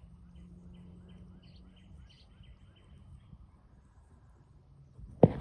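A bird chirping in quick, evenly repeated short notes that stop about three seconds in, over a faint steady hum. Near the end comes a sudden loud knock, then a few more.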